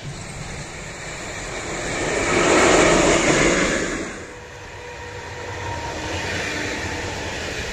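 A train passing at speed: a rushing noise that swells to a peak about three seconds in and then fades, leaving a quieter, steady noise.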